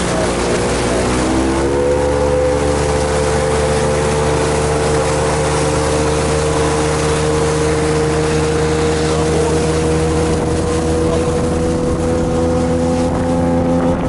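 Boat engine running under way, its pitch rising as it speeds up over the first two seconds, then holding steady.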